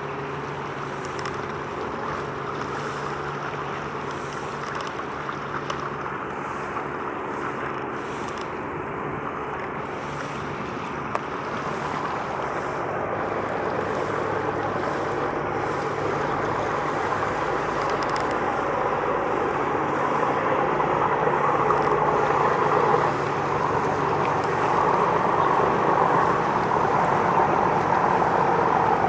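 Boat engine running steadily, with water and wind noise on the microphone, gradually growing louder.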